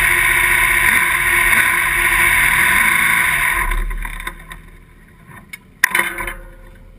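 Sprint car's V8 engine running steadily at a standstill, then shut off about three and a half seconds in and dying away. A couple of light clicks and a sharp knock follow near the end.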